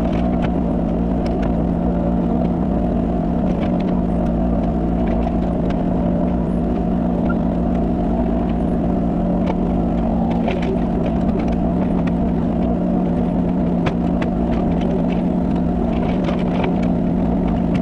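Kubota mini excavator's diesel engine running steadily at constant speed, with scattered light knocks over the top.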